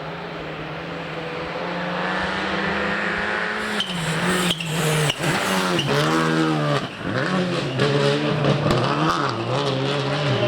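Rally car engine at full throttle, its pitch climbing steadily as the car comes closer. Then it revs sharply up and down several times through gear changes, with sharp cracks among the revs.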